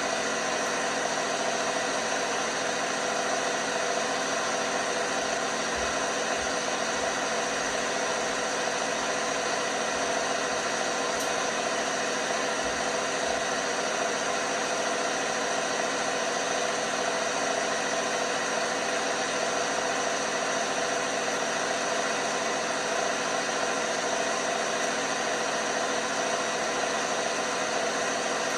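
LG washing machine running with a steady whirring hum from its motor and drum, holding many constant tones throughout.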